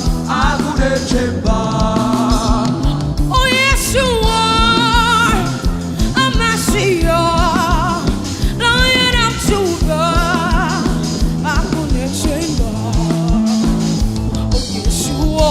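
Worship band music: a steady bass and beat under a wavering melody line with heavy vibrato.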